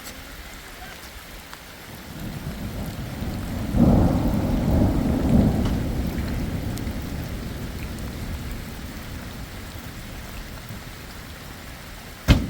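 Thunder rumbling over steady rainfall: the rumble swells about two seconds in, peaks soon after and slowly dies away under the rain. A single sharp click near the end.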